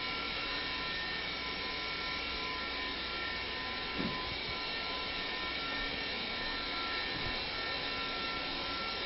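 Steady background hum and hiss with a few faint, steady high-pitched tones, and a faint tick about four seconds in.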